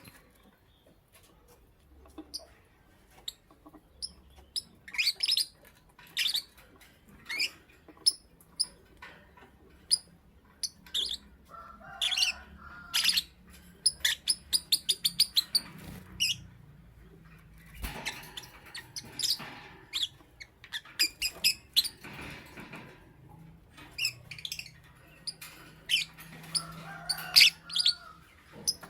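Lovebird chirping: short, sharp, high chirps in irregular clusters, with a quick rapid-fire run of chirps about halfway through and a few lower, drawn-out calls.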